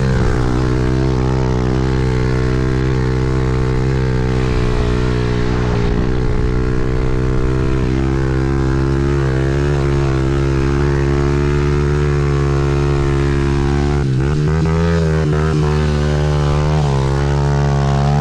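Small petrol pit bike engine running at a steady, held throttle, its pitch shifting a little about fourteen seconds in.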